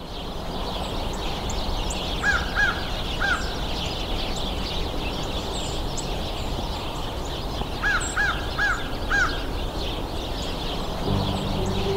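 Winter birds outdoors: many small calls chattering, with a louder bird giving short arched calls in series of three or four, twice. A low steady rumble lies under it, and music comes in near the end.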